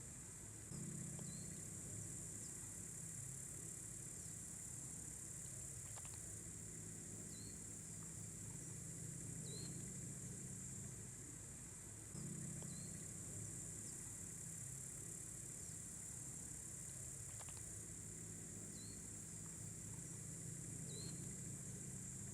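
Evening crickets chirping in a steady high-pitched trill, with short rising chirps repeating every second or two. A faint low hum comes in about a second in and again about halfway through.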